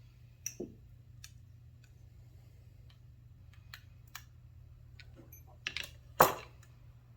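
Small metal parts and hand tools clicking and clinking as a small-engine carburetor is taken apart by hand: a scatter of light clicks, with one louder clank about six seconds in.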